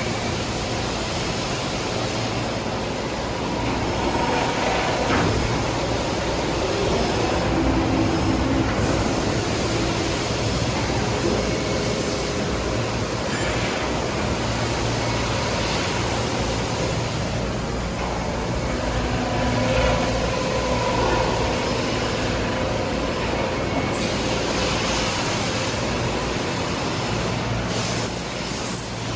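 Sumitomo Heavy Industries SVR130A rotary grinder running: a steady machine hum with a few faint steady tones over it, holding an even level throughout.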